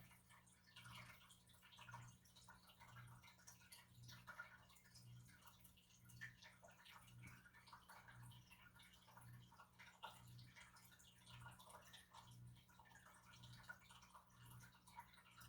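Near silence: room tone with a faint low hum that swells about once a second, and faint scattered light ticks.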